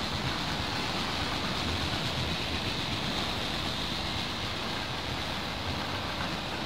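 Freight train of autorack cars rolling past, a steady, even noise of steel wheels running on the rails.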